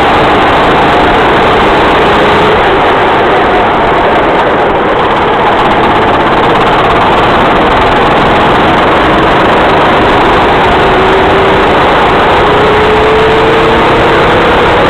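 Racing kart engine running under a dense, loud rushing noise. Its pitch climbs slowly over the last few seconds.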